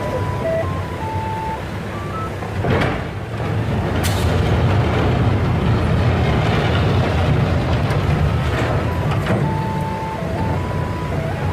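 Heavy vehicle's diesel engine running with a steady low rumble, with a simple electronic warning tune playing at the start and again near the end. A knock about three seconds in and a sharper clack about a second later.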